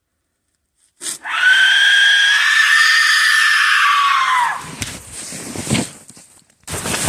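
A loud, high-pitched, scream-like cry starts suddenly out of dead silence about a second in and holds one pitch for about three seconds, then slides down and stops. Irregular crunching and rustling follow.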